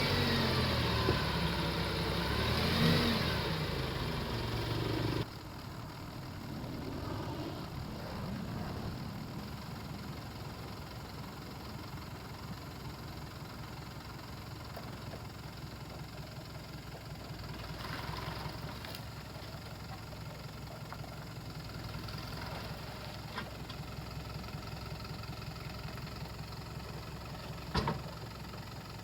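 Diesel engine of a palm oil transport truck running, louder for about the first five seconds and then dropping suddenly to a steady, quieter low rumble. There is one sharp knock near the end.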